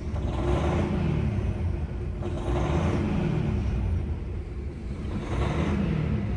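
DAF XF480's six-cylinder diesel engine revved three times from idle, each rev rising and falling in pitch, with a hiss that swells with each rev.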